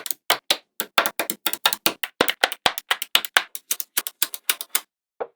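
Small magnetic balls clicking as they snap together in quick succession, about six sharp clicks a second, stopping abruptly near the end.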